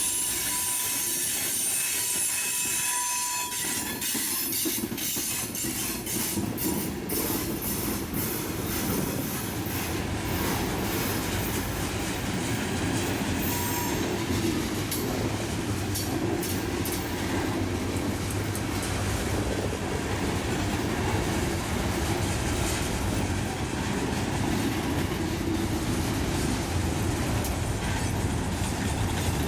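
Train cars rolling past on the track: steel wheels squeal on the rails for the first few seconds, then a steady rumble with a run of sharp clicks as the wheels pass over rail joints.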